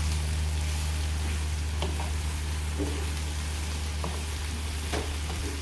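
Chicken strips frying in oil, a steady sizzle with a few light clicks and knocks, over a constant low hum.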